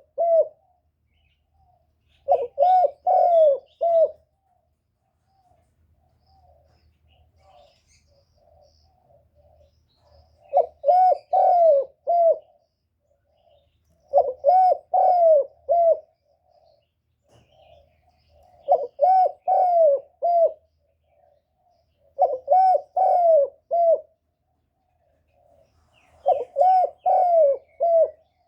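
Spotted dove cooing: repeated phrases of four or five coos, each phrase under two seconds, spaced a few seconds apart. For a few seconds near the start there is a longer gap, filled with faint, scattered softer notes.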